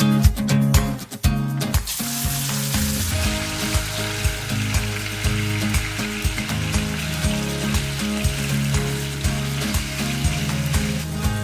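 Minced chicken sizzling in hot oil in a wok while a spatula stirs and breaks it up; the sizzle sets in about two seconds in and stops near the end. Background music with a steady beat plays underneath.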